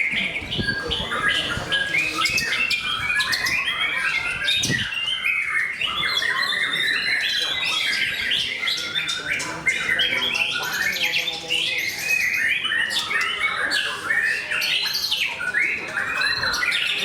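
White-rumped shama (murai batu) songbird singing a fast, unbroken run of whistles, trills and chattering notes, with other birds' calls overlapping.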